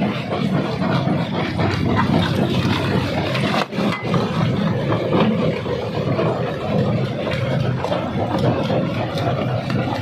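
Jaw rock crusher running loudly under load: a steady heavy machine drone with constant clatter and cracking of stone being broken. The sound drops out for an instant a little over a third of the way in.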